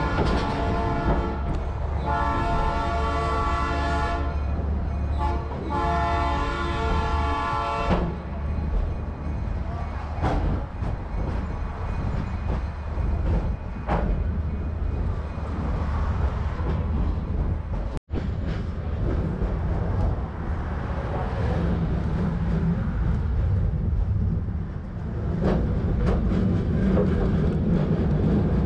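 Train horn sounding three blasts, the first shorter and the next two longer, followed by the low rumble and clatter of the train rolling along the track.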